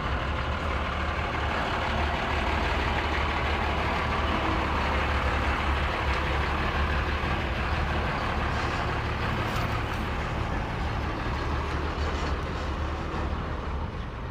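Heavy truck engine running steadily, with a deep low rumble; it eases off slightly near the end.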